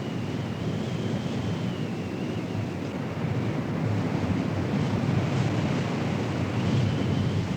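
Strong wind buffeting the microphone: a steady low rushing noise, with a faint high wavering whine above it.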